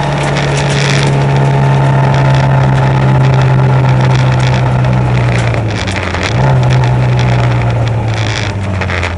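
Peugeot 205 rally car's four-cylinder engine heard from inside the cabin, running hard at steady high revs. About six seconds in the pitch sags, then jumps back up; near the end the revs fall away as the car slows.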